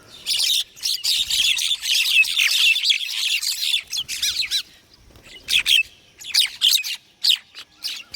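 Several small birds chirping and trilling rapidly in a dense chorus for about four and a half seconds, then a short lull and a few scattered calls.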